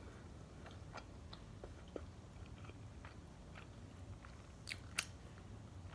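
Close-miked chewing of a mouthful of sushi roll with the mouth closed: soft, faint wet clicks and small crunches, with a couple of sharper clicks near the end, over a low steady hum.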